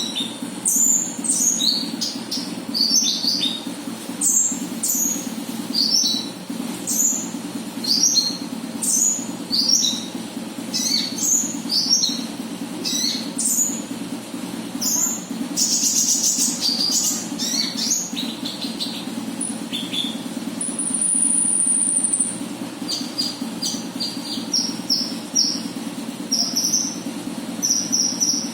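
Konin bird lure call: bursts of rapid, high, short falling chirps, with a thin high whistle held for a second or two past the middle. A steady low hum runs underneath.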